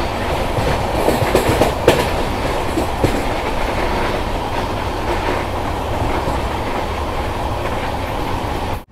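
Passenger train running at speed, heard from the coach: a steady rumble of wheels on the track, with a few sharp clacks of wheels over rail joints between about one and three seconds in.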